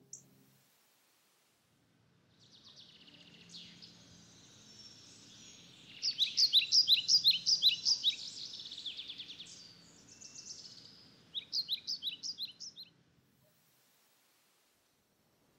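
Songbirds chirping and singing over a faint, steady outdoor background hum. Two loud runs of quick repeated chirps, about four or five a second, come about six seconds in and again near the twelve-second mark.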